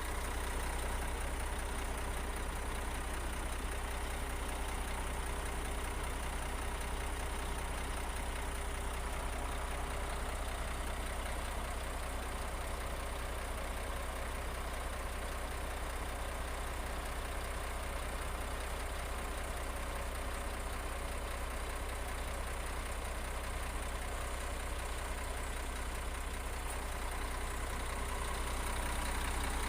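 Heavy construction machine's engine running steadily with a deep, even hum.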